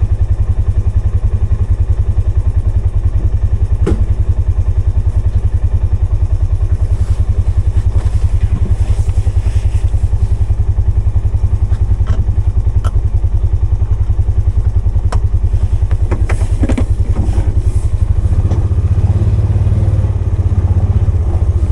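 Polaris 570's single-cylinder engine running steadily, with a few sharp knocks and clunks along the way; the engine note grows louder and heavier in the last few seconds.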